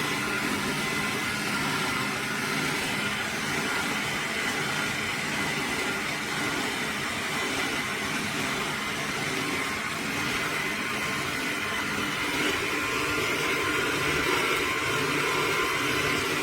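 Electric juicer motor running steadily with a constant whirring hum.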